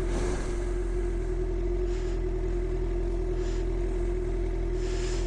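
Suzuki GSX-R 750 inline-four with an Akrapovic slip-on exhaust running steadily at constant revs, its pitch unchanging.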